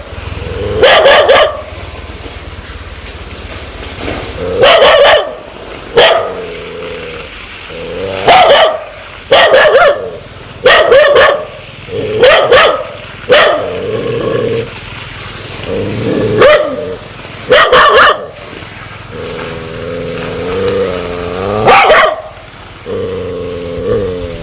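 Dog barking aggressively, as a dog does when it means to bite: about a dozen sharp, loud barks at irregular intervals, with long wavering whines between them, mostly in the second half.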